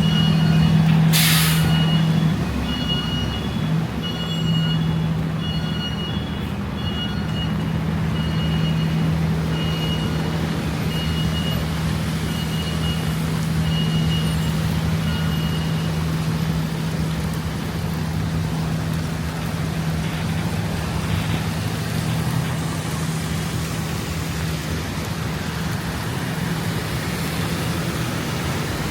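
A bus or truck engine idling with a steady low hum on a city street, with a short air-brake hiss about a second in. A high electronic beep repeats about once a second and stops about halfway through, all over steady traffic noise.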